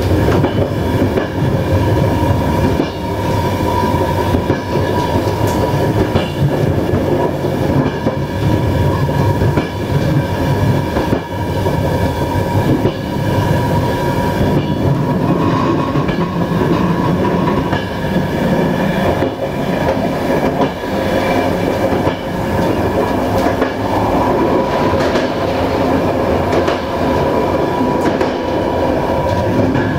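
Passenger train running along the track, heard from inside a coach: a steady wheel-on-rail rumble with a ringing hum and occasional clacks of the wheels over rail joints.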